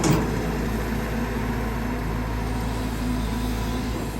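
Caterpillar 320GX excavator's Cat C4.4 four-cylinder turbo-diesel engine and hydraulic pump running steadily under digging load.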